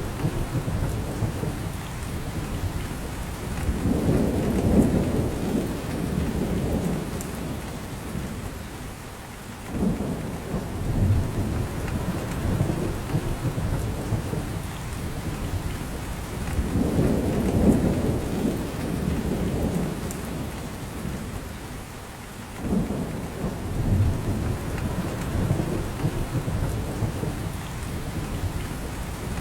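Rain falling steadily on a forest, with a deep rumble that swells up twice and drops away sharply.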